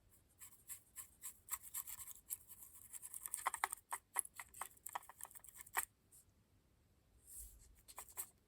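Small stiff paintbrush scrubbing pigment powder onto a model locomotive's body, a rapid run of short scratchy strokes that stops about six seconds in, with a few more strokes near the end.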